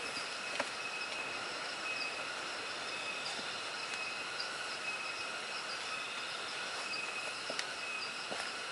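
Steady chorus of insects in the forest: a constant high hiss with a few held tones, broken by a few faint clicks.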